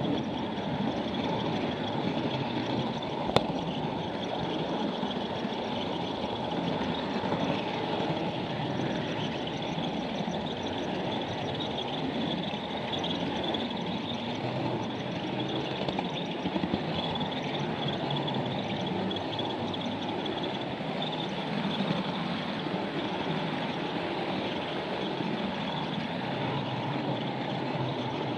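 Model train running on a layout: the steady rumble and clatter of small wheels and motor on the track, with one sharp click about three seconds in.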